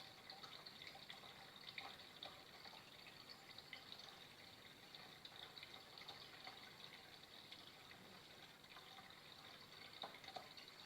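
Flowing water trickling steadily and faintly, with small droplet plinks scattered through it and a couple of slightly louder ones near the end.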